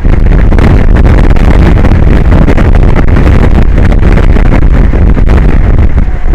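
Strong wind buffeting the microphone, a loud, continuous rumbling roar heaviest in the low end.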